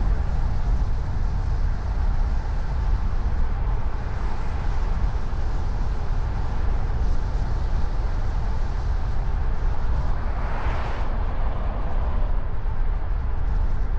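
Steady low rumble of a car being driven, with road and engine noise at an even level. About ten seconds in, a brief swelling hiss rises and fades.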